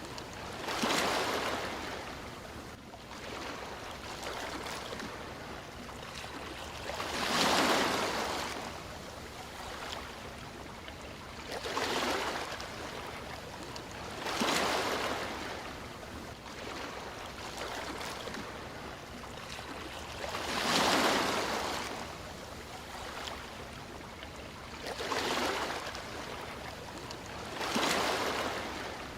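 Sea waves washing onto a shore: seven surges of surf, each swelling and fading over a second or two, over a steady hiss of water.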